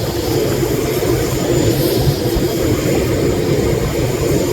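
Airliner engines running steadily nearby, a loud continuous rumble and roar.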